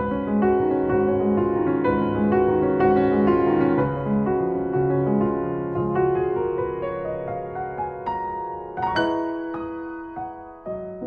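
Gentle background piano music, notes played one after another with a louder note struck about nine seconds in.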